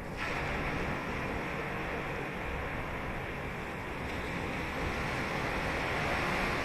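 Ocean waves breaking and washing up the beach: a steady rushing surf that jumps louder just after the start and swells to its loudest near the end.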